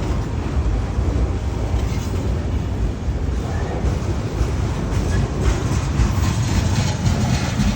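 A train rolling by, a steady rumble heaviest in the low end.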